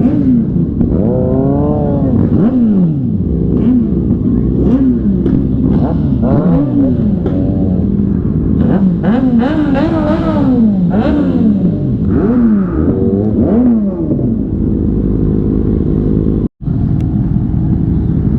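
Sport motorcycle engines revving, several at once, their pitch rising and falling over and over in overlapping sweeps. The sound cuts out for an instant about two seconds before the end.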